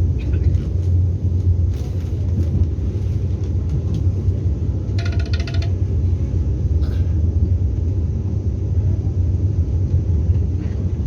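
Steady low rumble of the Vande Bharat Express electric trainset running at speed, heard from inside the passenger coach, with a few light clicks and rattles. A brief high tone sounds about five seconds in.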